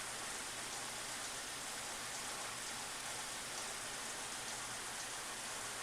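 A steady, even hiss with no distinct knocks or events.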